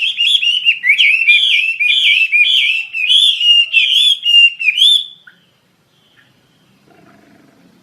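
Wambi Asia songbird singing a fast, continuous run of repeated slurred whistled notes. The song stops about five seconds in, leaving only faint background sound.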